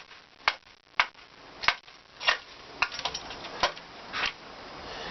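A series of sharp, irregular knocks or crunches, about eight in five seconds.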